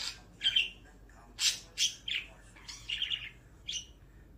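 Budgerigar chirping: a series of short, sharp chirps, with a brief warbling chatter a little after the middle.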